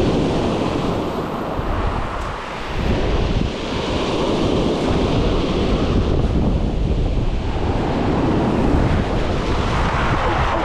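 Surf breaking and washing up the beach, with wind buffeting the microphone in a heavy low rumble.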